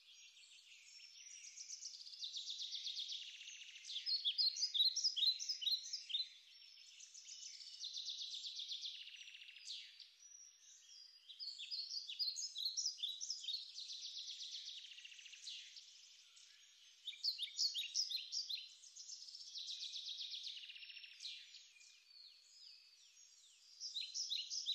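Songbirds singing: repeated high-pitched phrases of quick chirps and buzzy trills, a new phrase every couple of seconds.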